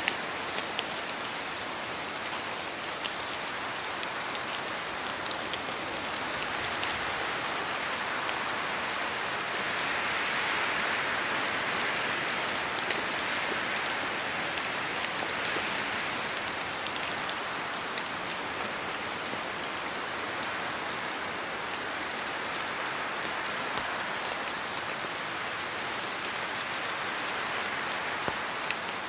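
Steady rain falling, a continuous hiss with many individual drops ticking on surfaces, growing a little louder for several seconds in the middle.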